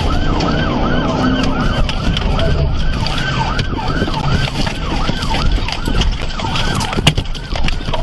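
Police car siren on a fast yelp, about three rising-and-falling sweeps a second, over engine and road noise during a pursuit. A sharp click sounds about seven seconds in.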